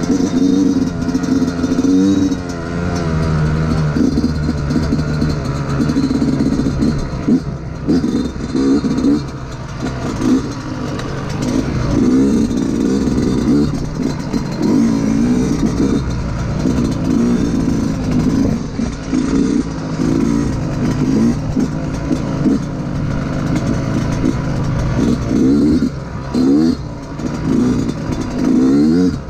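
Yamaha YZ125 single-cylinder two-stroke dirt-bike engine being ridden, its pitch rising and falling over and over as the throttle is opened and closed.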